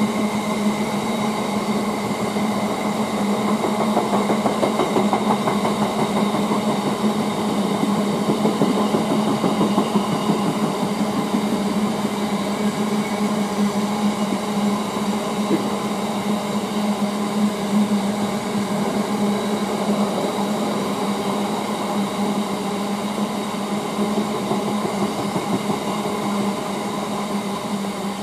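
A train running on the line: a steady low hum with fainter high steady tones over a noisy haze, easing off slightly near the end.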